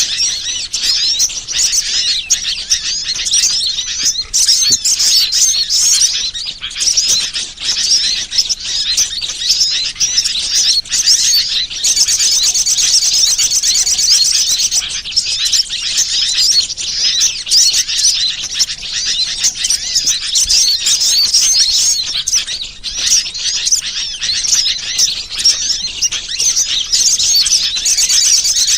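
A dense chorus of many small birds chirping and twittering high and continuously, overlapping with no pause. A fast, even trill joins in about twelve seconds in and again near the end. This is the kind of recorded call used as a lure to draw wild birds in for trapping.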